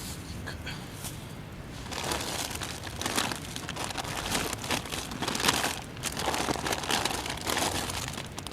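Irregular crinkling and rustling, starting about two seconds in and going on in uneven bursts.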